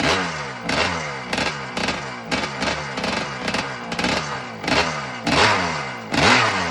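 1978 Yamaha YZ250's two-stroke single-cylinder engine running with repeated quick throttle blips, about one and a half a second, each rev falling back in pitch. The last two blips near the end are the loudest.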